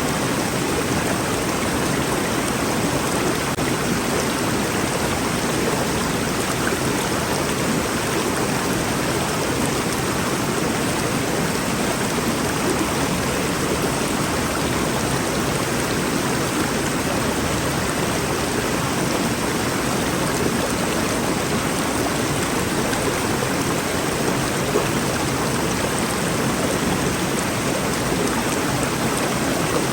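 Rainforest river flowing: a steady, even rush of water over rocks.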